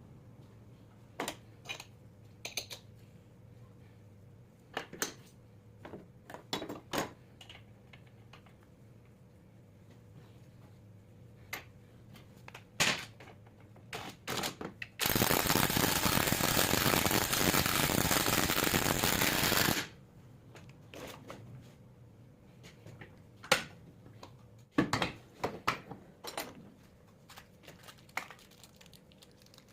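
Scattered clicks and clinks of metal parts and hand tools being handled. A loud, steady hiss with no pitch to it runs for about five seconds midway.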